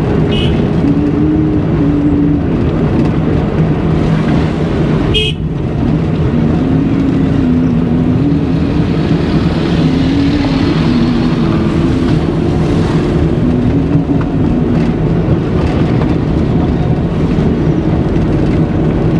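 Traffic and road noise heard from inside a moving car with a window open: a steady engine and road rumble with vehicle horns sounding, and one sharp click about five seconds in.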